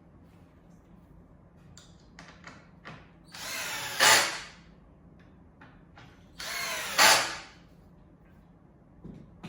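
Power drill-driver driving two screws into a board: two runs of about a second each, each ending in a louder burst as the screw runs in, with a few light knocks of parts being handled before them.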